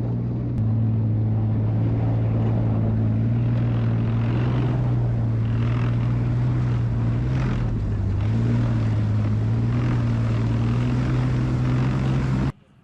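Leopard tank engine running with a loud, steady low drone that dips briefly about two-thirds of the way through, then cuts off suddenly near the end.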